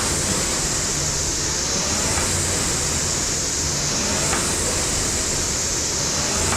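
Rowing machine's air flywheel whooshing steadily, swelling and easing with each stroke about every two seconds, with a faint tick at each stroke.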